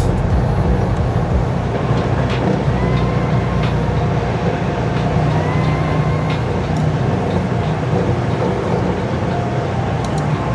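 Diesel engine of a 2025 International LT semi-truck running steadily as the truck is driven, with a faint short rising whine twice.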